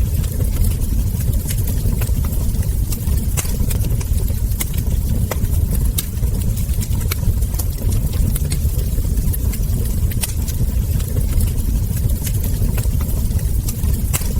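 Wood fire burning: frequent sharp crackles and ember pops, several a second at irregular spacing, over a steady low rumble of the flames.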